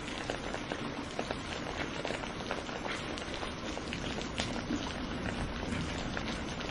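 Steady rain falling, with many close drops striking a surface as sharp individual ticks over an even hiss.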